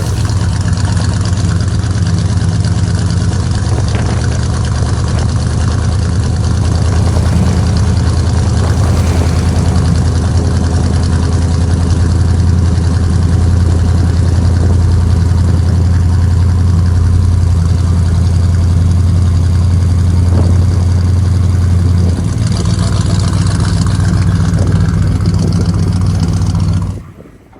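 A car engine idling with a steady, deep rumble, cutting off abruptly near the end.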